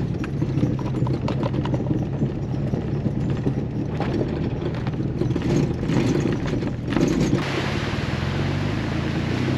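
Jeep Wrangler driving on a gravel trail: a steady low rumble from the engine and tyres, with crackling and rattling from the gravel. About seven and a half seconds in, the crackling stops and a smoother, steady hiss takes over.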